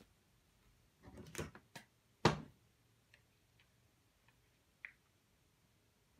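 Quiet room with a few brief rustling and handling noises. The loudest is a single sharp click a little over two seconds in, followed by a few faint ticks.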